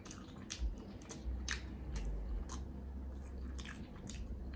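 A person biting into and chewing a soft pretzel-bun double cheeseburger, picked up close. The chewing gives a string of sharp, short mouth clicks.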